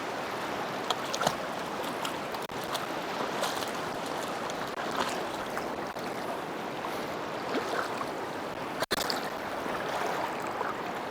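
Creek waterfall: a steady rush of falling water, with small splashes ticking through it.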